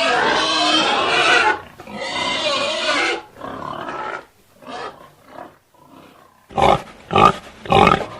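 Animal calls: several overlapping pitched calls at first, then fainter scattered calls, then a run of four loud short calls about half a second apart near the end.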